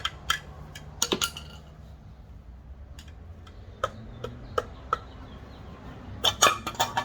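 Sharp metallic clicks and clinks of hand tools working on a wheel, scattered singly, with a quick run of several near the end.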